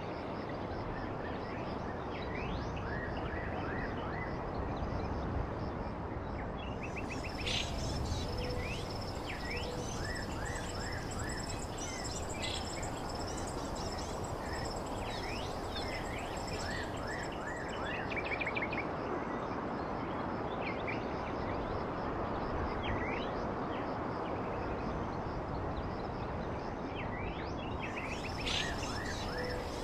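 Many small birds chirping in quick, short twittering calls over a steady rushing background hiss, with a steady high-pitched insect drone and, about eight seconds in, a low two-note call.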